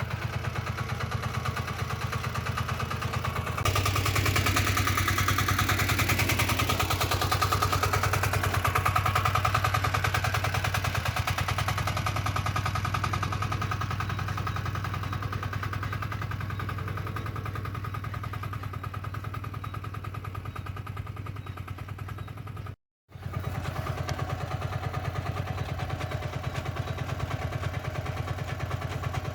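Single-cylinder diesel walk-behind tractor engine running with a rapid, even knock. A few seconds in it gets louder and brighter, then slowly eases back over the following stretch. The sound cuts out briefly about three quarters of the way through, then the steady running resumes.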